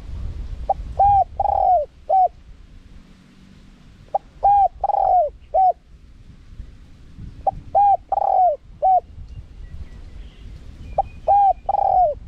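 Spotted dove cooing in four phrases about three seconds apart. Each phrase has two short coos, one long drawn-out coo and a short closing coo.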